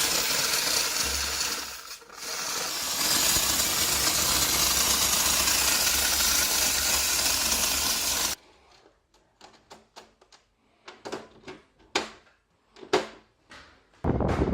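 Steam cleaner jet hissing steadily, with a brief dip about two seconds in, then cutting off suddenly about eight seconds in. Scattered light clicks and knocks follow, and the hiss starts again near the end.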